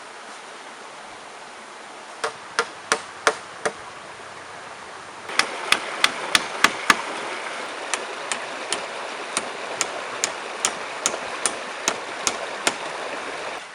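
Hammering in a steady rhythm: a quick run of five strikes, then a longer run of about three strikes a second that starts loud and goes softer. Under it runs the steady rush of a river, which grows louder about five seconds in.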